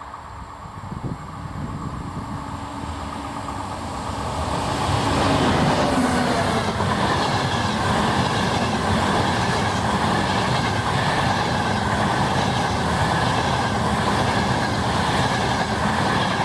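ETR 500 Frecciarossa high-speed electric train passing at speed. The sound swells over the first five seconds as it approaches, then holds as a loud, steady rush of wheels on rail as the train goes by.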